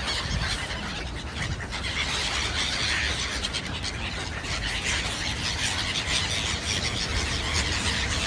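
Many birds calling and chirping together, a continuous busy chatter over a low steady rumble.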